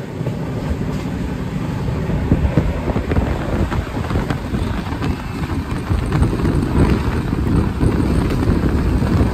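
Express passenger train running at high speed, heard from on board: a steady loud rumble with continual clatter of the wheels over the track.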